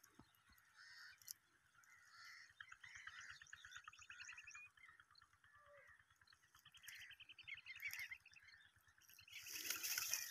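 Faint bird calls: two rapid trills lasting a second or two each, with scattered chirps between. Near the end comes a loud rush of noise.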